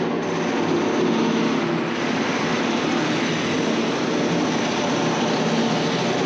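Train running, heard from inside the carriage: a steady, even running noise of the wheels and motors on the track.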